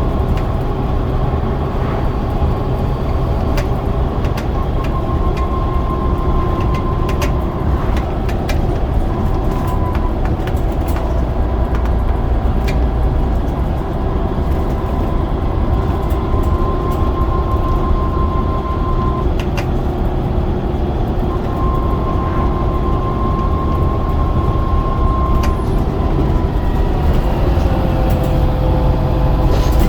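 Scania DC9 9-litre diesel of a double-decker bus running under way, a steady low drone with a high whine that comes and goes and scattered light rattles.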